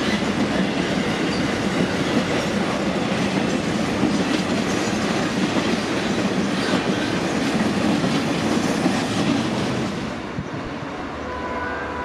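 Container freight wagons rolling past close by, their wheels running on the rails in a steady loud noise. About ten seconds in it turns quieter as the train moves away.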